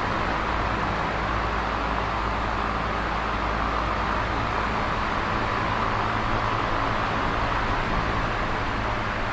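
Electric fan running steadily: an even whoosh of moving air with a faint, steady low hum beneath it.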